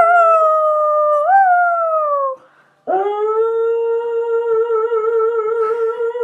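Dog howling twice: a first howl that bends up briefly and then slides down, and after a short pause a second, lower howl held long and steady with a slight waver.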